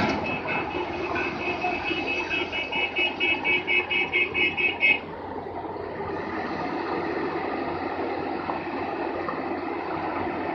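A heavy machine's warning alarm beeping rapidly, about four beeps a second, over a steadily running diesel engine. The beeping stops about halfway through while the engine keeps running.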